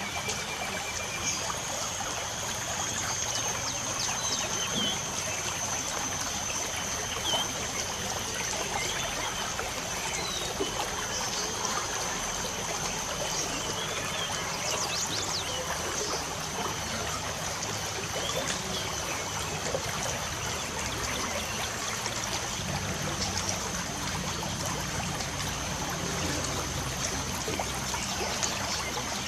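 Light rain falling steadily, its pattering and trickling forming an even wash of sound. Scattered short bird chirps sound over it, along with a thin, steady high-pitched tone.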